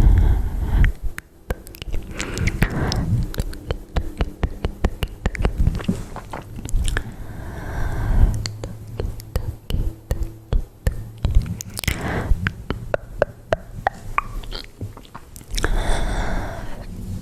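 ASMR mouth sounds made close to the microphone: a dense, irregular run of wet clicks and smacks, with a few soft breathy passages.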